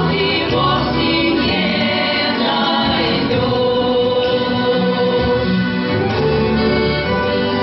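A folk choir singing a song with instrumental accompaniment, held sung notes.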